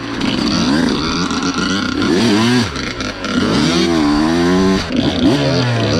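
Dirt bike engine being ridden, its revs rising and falling again and again as the throttle is worked.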